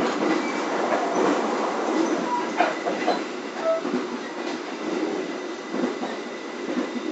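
Passenger train coach running at about 95 km/h, heard from inside the cabin: a steady rush and rumble of wheels on rail with irregular clacks and a few brief squeals.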